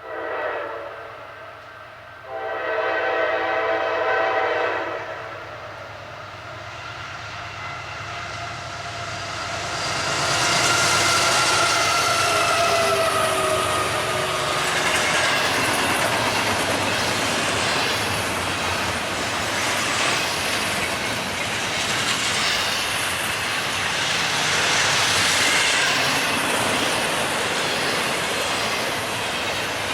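A BNSF train's locomotive horn sounds a short blast, then a longer one about two seconds in. Around ten seconds in the train passes at speed and the horn's pitch slides down. After that come the steady rush and clickety-clack of the cars rolling by.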